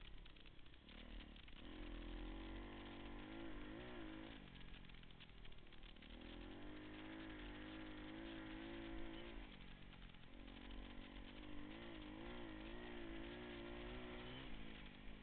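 Pit bike engine revving in three spells of throttle, its pitch wavering up and down, then dropping back to lower running between them.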